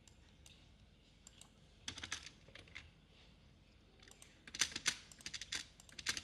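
Typing on a computer keyboard: scattered keystrokes, a short burst about two seconds in, then a quick, dense run of keys from about four and a half seconds on.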